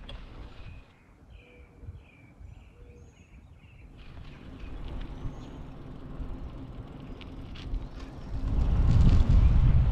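A bird gives a quick series of about six short chirps in the first few seconds. Near the end, wind rumbling on the microphone comes in loud and low.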